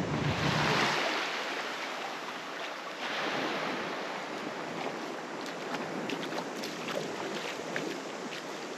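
Small waves washing onto a sandy beach, surging about a second in and again around three seconds, with light wind on the microphone and a few faint clicks.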